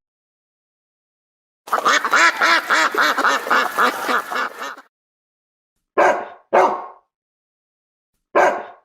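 Animal calls: a fast run of repeated calls lasting about three seconds, then two pairs of short calls.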